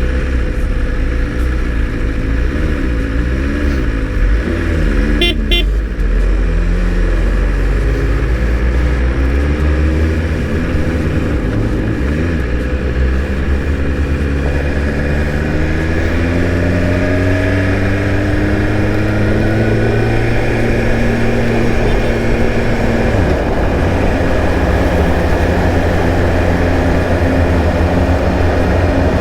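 Motorcycle engine running on the road, with steady low road noise. Its pitch climbs slowly for several seconds, then drops sharply about 23 seconds in, as at a gear change.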